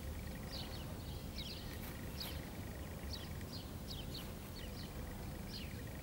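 Small birds chirping: short high chirps, each falling in pitch, two or three a second and often in pairs, over a low steady background rumble.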